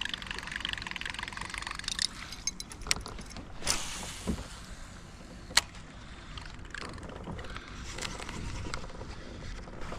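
Buzzbait being reeled across the water surface, its blade churning and gurgling the water. Two sharp clicks stand out, one a little before the middle and one just after it.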